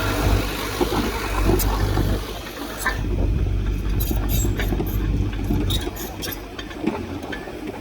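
Heavy earthmoving machinery working, its diesel engine running with a steady low rumble and scattered clanks and knocks.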